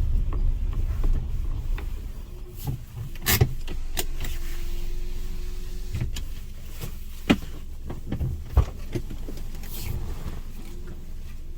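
Car sounds after parking: a low running rumble at first that fades, then several sharp clicks and knocks, with a brief steady electric-motor hum like a power window moving about midway.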